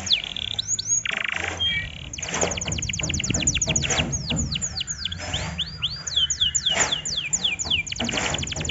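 Canary singing: quick series of steeply falling whistled notes, several a second, broken up by fast trills and buzzy rattles.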